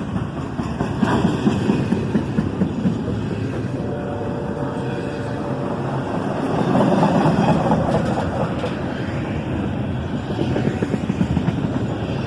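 CSX double-stack intermodal train rolling past as it slows: a steady rumble and clatter of wheels on the rails, swelling for a couple of seconds past the middle.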